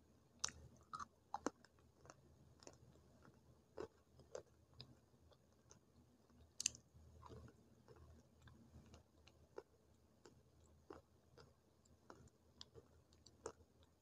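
Close-up crunching as a person bites and chews hard, chalky slate-pencil sticks: several sharp crunching bites in the first second and a half, another loud crack about six and a half seconds in, and scattered smaller crunches of chewing in between.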